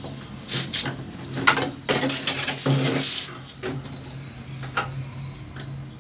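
Clatter of hard parts being handled: a series of sharp knocks and clicks with a brief rustling scrape about two seconds in, over a steady low hum.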